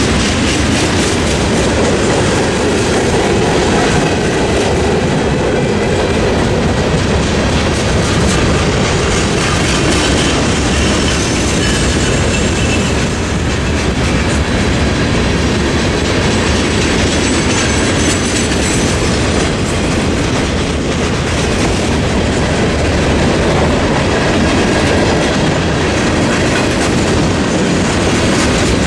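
Freight train cars (tank cars, a covered hopper and a flatcar) rolling steadily past: a continuous rumble of steel wheels on rail with a rapid clickety-clack over the joints and crossing.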